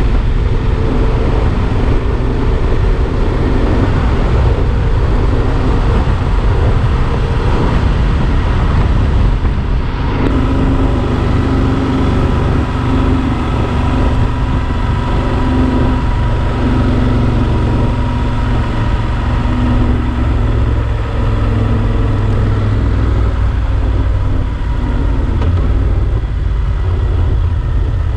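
Yamaha Super Ténéré XT1200's parallel-twin engine running steadily under way, with a heavy rush of wind noise. The engine note shifts about ten seconds in.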